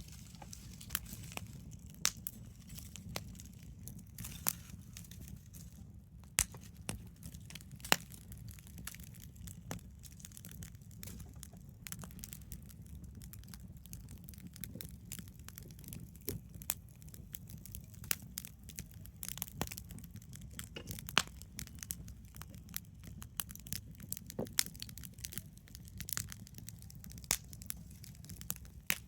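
Wood campfire crackling: irregular sharp pops and snaps, some loud, over a low steady rumble.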